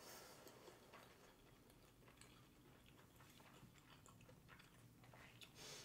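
Faint chewing of sushi, close to the microphone: a few soft, scattered wet mouth clicks over near silence.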